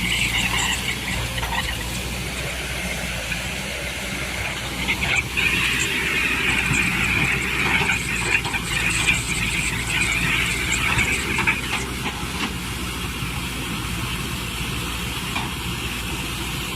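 Excavator running, its diesel engine a steady low drone under a high-pitched squeal that swells and fades, with a few short knocks about five to twelve seconds in.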